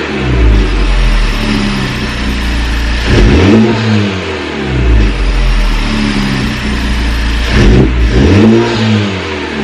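Honda Civic Type R's turbocharged 2.0-litre four-cylinder, parked and free-revved twice, each rev rising and falling back, with the engine running steadily between them. The stock air filter is in, the AWE Touring exhaust is fitted, and the turbo spooling can be heard on the revs.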